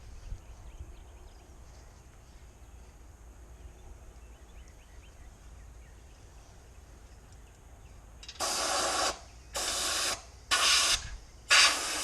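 Faint outdoor ambience, then a pressure washer spraying in four short bursts about eight seconds in.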